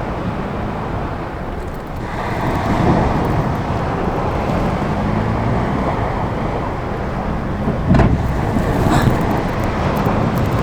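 Kia Ray's small engine running and pulling under load as the car sits stuck in sand, its pitch shifting, with a single sharp knock about eight seconds in.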